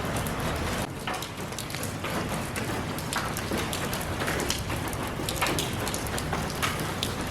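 Steady rainfall, with many separate drops pattering on a surface.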